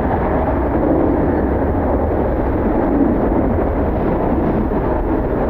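Jet airliner engines running steadily during a rough, gusty crosswind landing, with wind noise on the microphone.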